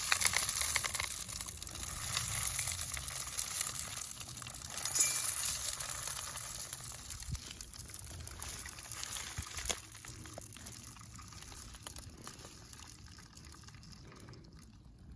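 Birdseed being poured into a bird feeder: a steady pouring hiss, loudest in the first few seconds and growing fainter toward the end.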